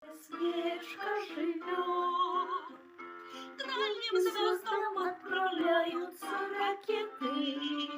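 A song: a high voice singing a melody with vibrato over musical accompaniment.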